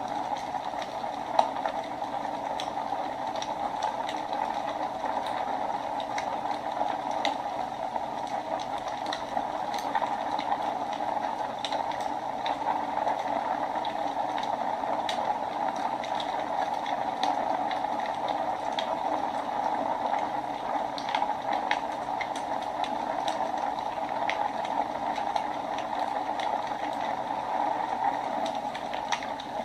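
Wood fire burning in a fireplace: a steady hiss with frequent small crackles and pops, one sharper pop about a second and a half in.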